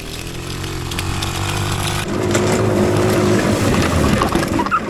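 Small go-kart engine running, growing louder about two seconds in and easing off near the end.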